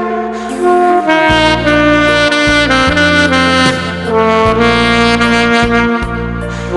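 Saxophone playing a held, legato melody over an instrumental backing track with sustained bass notes.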